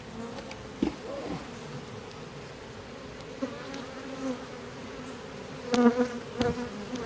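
Honeybees buzzing around an opened hive: a steady hum, with single bees droning past and shifting in pitch, one passing close and loud about six seconds in. A sharp click about a second in, and another near the end.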